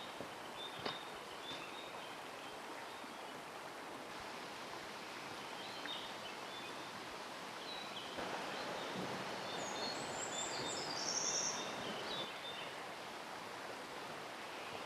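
Mountain stream flowing steadily, with small birds chirping high above it now and then, most busily a little past the middle.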